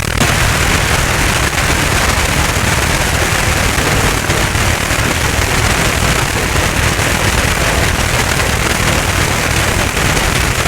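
Radio receiver reproducing a 'broom noise' jamming signal: a loud, steady rushing noise with a fast, rough flutter in the low end. It cuts in abruptly and drowns out any station.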